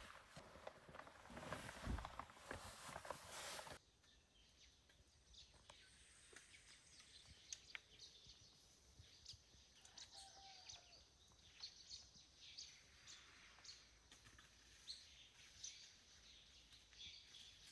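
Rustling, clicking noise for the first few seconds that cuts off suddenly, then faint outdoor ambience with scattered soft bird chirps.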